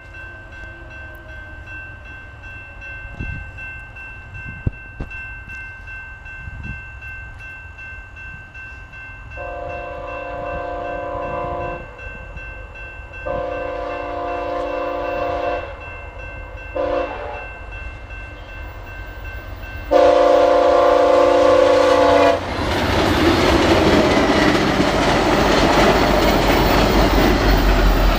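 A VIA Rail passenger train's diesel locomotive sounds its horn in the level-crossing pattern (long, long, short, long) as it approaches, then passes close by with a loud, steady rumble of engine and wheels. Underneath the early part, a level-crossing bell rings steadily.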